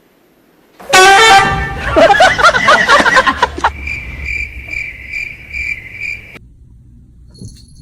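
A loud horn honk about a second in, followed by a couple of seconds of jumbled loud pitched noise, then a high electronic beeping, repeating a few times a second, that cuts off suddenly.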